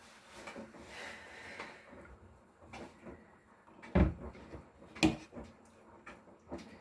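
Two short, sharp knocks about a second apart, a few seconds in, over faint rustling.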